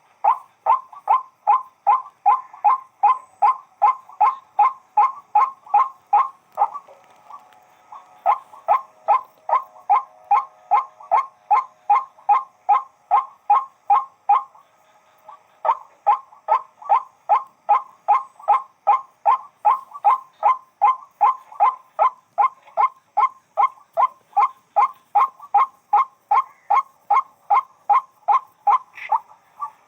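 White-breasted waterhen (wak-wak) calling, a fast string of repeated harsh notes, about three a second, broken by two short pauses.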